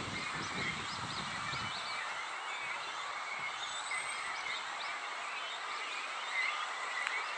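Outdoor bird calls: a dense, steady chorus of chirps with brief higher calls in the first second or so, over a low rumble that stops a little under two seconds in.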